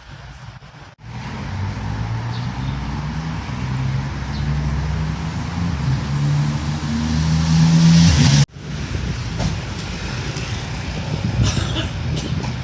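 An engine running and rising steadily in pitch as it speeds up, cut off abruptly about two thirds of the way through, followed by a rumbling, wind-like noise.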